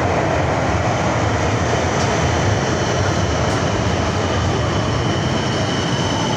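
Underground metro train running: a steady, loud noise of wheels on track with faint steady whining tones.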